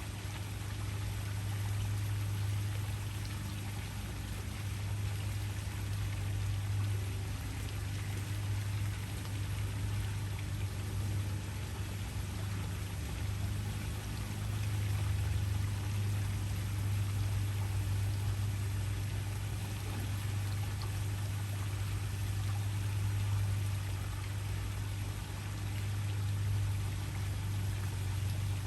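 Waterfall: water pouring and splashing in a steady, even rush, with a deep constant rumble underneath.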